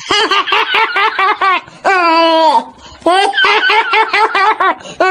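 High-pitched laughter laid over a turtle being scrubbed with a toothbrush: two fits of quick 'ha-ha-ha' pulses with one long drawn-out squeal between them, and another squeal starting near the end.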